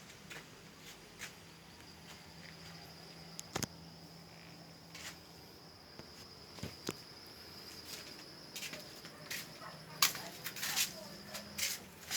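Faint, steady high-pitched insect trill, with scattered small clicks and knocks that grow louder and more frequent near the end.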